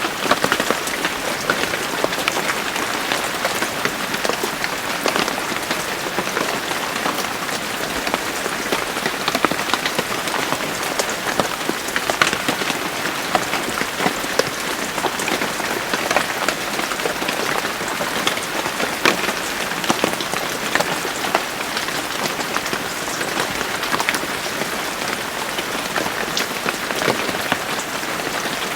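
Steady rain with dense drops pattering on a hard surface, many individual drop ticks standing out over the continuous hiss.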